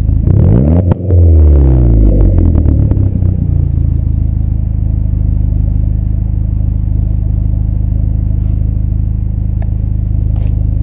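Big-turbo Audi A4 idling through a 3-inch turbo-back exhaust with dual Vibrant StreetRace mufflers, blipped once: the revs climb quickly in the first second, then fall back over a couple of seconds to a steady, deep idle.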